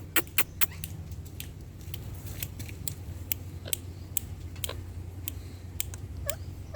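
A run of sharp, irregular clicks and taps, closely spaced at first and then about one a second, over a steady low hum.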